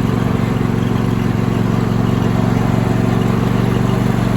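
26 hp Briggs & Stratton V-twin engine on a Cub Cadet lawn tractor running steadily at an even speed, an engine the owner says doesn't run great.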